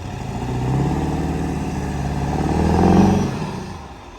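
A 7.3 diesel pickup truck's engine revs under throttle while its wheels spin and dig on ice. The revs build for about three seconds, then drop off.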